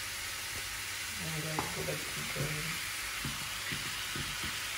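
Chicken frying in oil in a pan: a steady sizzle.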